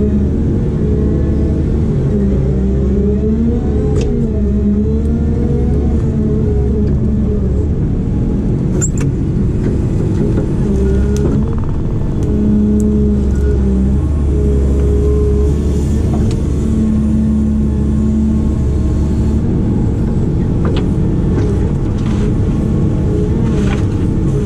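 Diesel engine of a heavy excavator or backhoe working under load, its pitch rising and falling as the hydraulics are worked, with a few sharp knocks.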